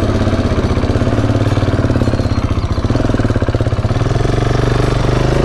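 KTM 690's single-cylinder engine running steadily, with a rapid, even firing pulse.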